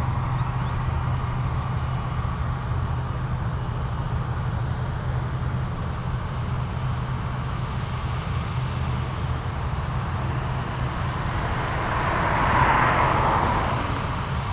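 Steady low rumble of a jet airliner's engines heard from the airport perimeter, with a louder rushing noise swelling and fading about twelve seconds in.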